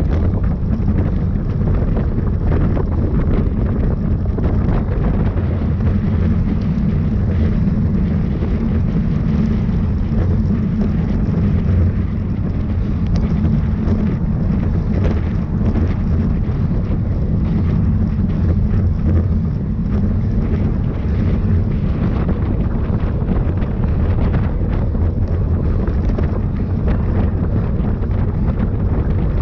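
Wind noise on the camera microphone while riding at speed: a loud, steady low rumble.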